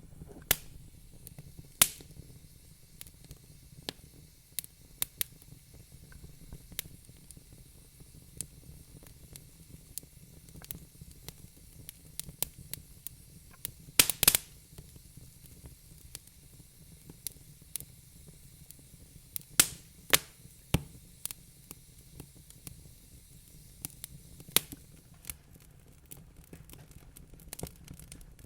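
Wood fire crackling in a fireplace: irregular sharp pops and snaps over a faint steady hiss, with a burst of louder pops about fourteen seconds in.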